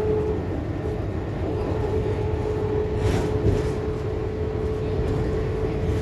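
Scania K280UB4 city bus under way, heard from inside: a continuous engine and road rumble with a steady whine held at one pitch.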